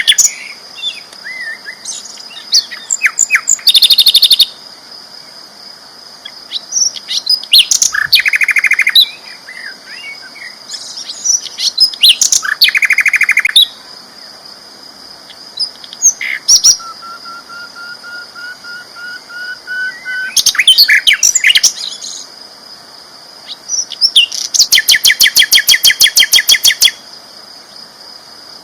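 Sikatan londo flycatcher singing loudly in separate bursts: scattered chirps and rapid trilled phrases, one long thin slowly rising whistle, and a long fast trill near the end. A steady high-pitched tone runs underneath.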